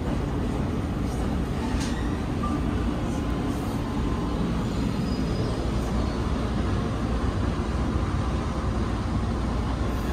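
Steady low rumble of a train running, heard from inside a passenger compartment, with a faint click or two.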